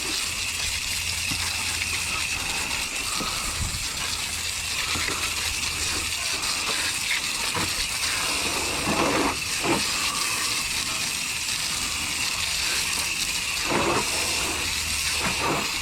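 Hose spraying water onto a car wheel with a steady hiss, with a few brief surges as the spray moves: the pre-wash rinse that loosens grime before scrubbing.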